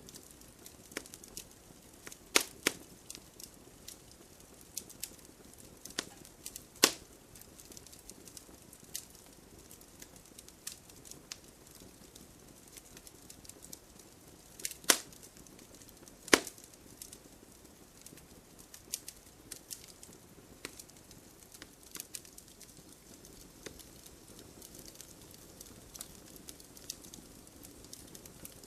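Wood fire crackling in a fireplace: irregular sharp pops and snaps over a faint low hiss of flame, with a few louder pops about two and a half, seven, fifteen and sixteen seconds in.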